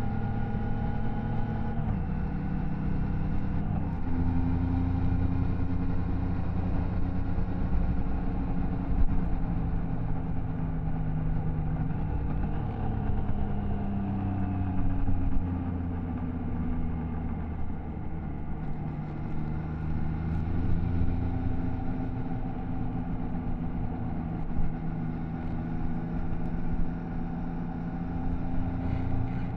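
Triumph Tiger Sport 660's three-cylinder engine and exhaust while riding. The pitch steps down and back up several times with gear changes and throttle, and falls off for a few seconds about halfway through.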